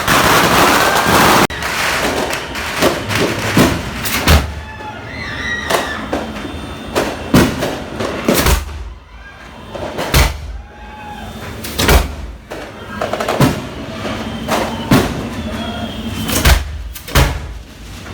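Fireworks going off: a loud crackling burst in the first second and a half, then a string of sharp bangs about every one to two seconds, several with a deep thud.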